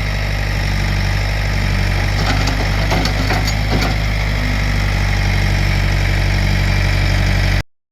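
Backhoe's diesel engine running steadily, with a few short knocks and scrapes from the bucket working the dirt about two to four seconds in; the sound cuts off abruptly near the end.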